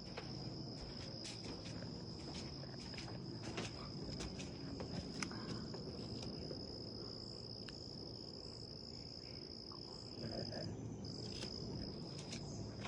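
A steady high-pitched trill that breaks off briefly near the end, with scattered light clicks and knocks over a low background rumble.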